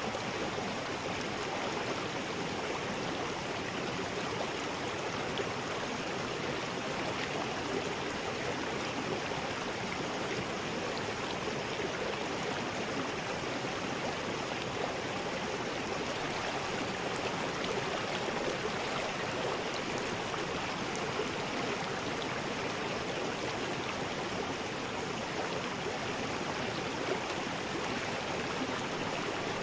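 River rapids: water rushing and churning over rocks in a steady, unbroken rush.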